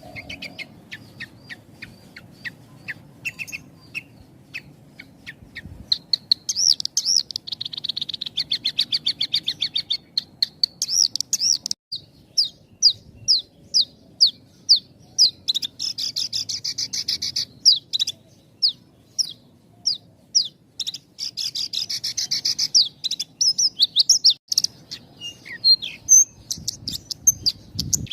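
Horsfield's bush lark (branjangan) singing. The song is a fast stream of short, high chirps with only brief pauses. It starts sparse, becomes dense about six seconds in, and is broken several times by buzzy trills.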